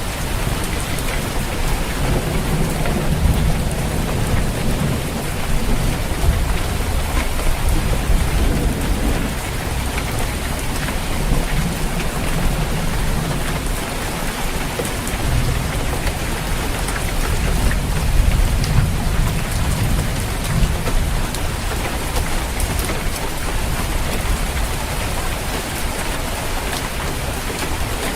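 Steady heavy rain drumming on a roof, with low rolling thunder rumbling underneath that swells and fades several times.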